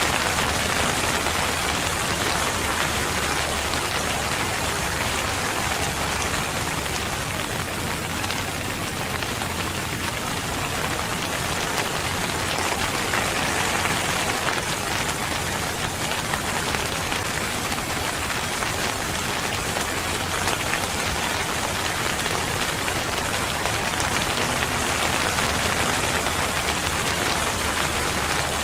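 Steady rain falling and pattering on a surface, an even hiss without pauses.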